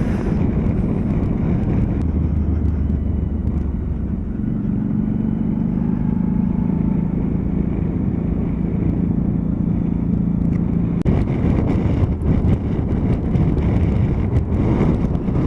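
Motorcycle running at road speed, with steady engine hum under continuous wind and road noise. The engine note steps up a few seconds in, and after about eleven seconds the wind noise gets louder and gustier.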